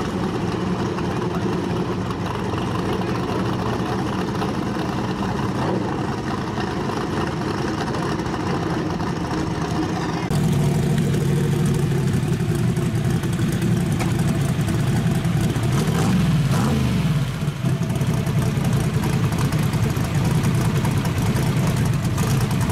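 Turbocharged Fox-body Mustang drag car's engine running steadily, louder and closer after a cut about ten seconds in. One quick throttle blip rises and falls in pitch about sixteen seconds in.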